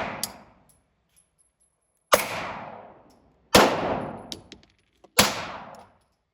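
Three gunshots fired about a second and a half apart, each with a loud crack and a ringing, echoing tail that dies away over about a second, typical of an indoor shooting range.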